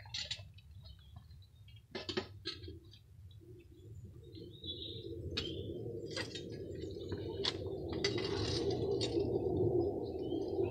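Small birds chirping, with a few sharp clinks and knocks. A steady low rushing noise comes in about halfway through and grows louder.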